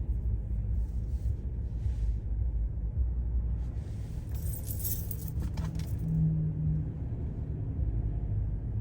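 Steady low road rumble of a car driving, heard from inside the cabin. Midway a bright metallic jingle rattles for about two seconds.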